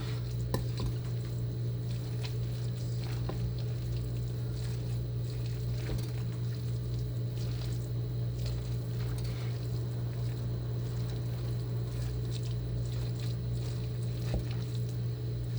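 Spoon stirring a mayonnaise-dressed chicken salad in a bowl: soft squishing with scattered light clicks, over a steady low hum.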